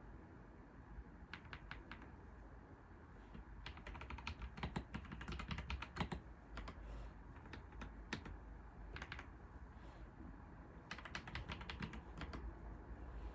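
Typing on a computer keyboard: quick runs of key clicks in bursts with short pauses between, busiest in the middle and again near the end.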